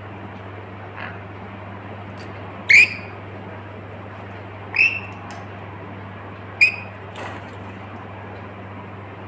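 Pet lory, a small parrot, giving three short, loud, falling squawks a couple of seconds apart, with a few fainter chirps between, over a steady low hum.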